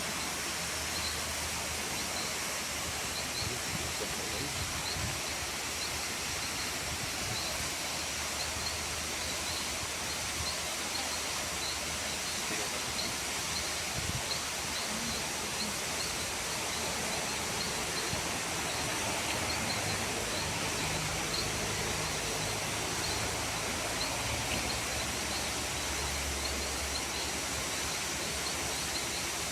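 Waterfall rushing steadily, a constant even roar of falling water. A faint high chirp repeats about twice a second over it.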